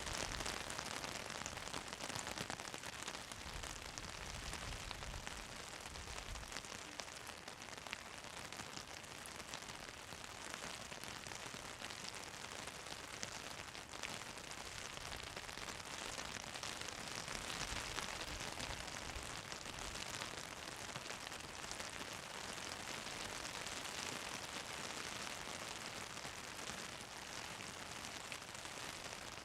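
Steady hiss of falling rain, with a few soft low rumbles.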